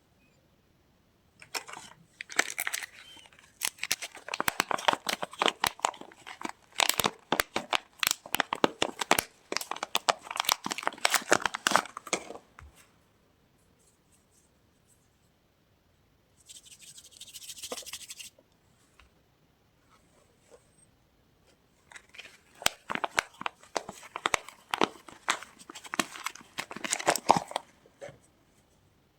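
Soap packaging being torn open and crinkled by hand: two long spells of dense crackling and tearing, with a short rip midway.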